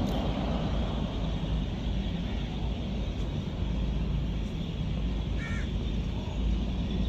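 Steady low outdoor background rumble, with a short bird call about five and a half seconds in.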